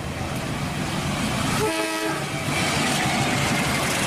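Passenger train hauled by a KAI diesel locomotive approaching, with a steady rushing rumble of engine and wheels on the track that grows louder. A brief horn note sounds about two seconds in.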